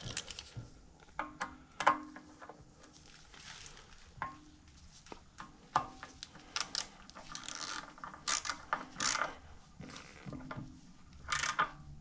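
Hand ratchet wrench clicking in short runs, with sharp knocks and clinks of metal tools, as bolts are run down and tightened.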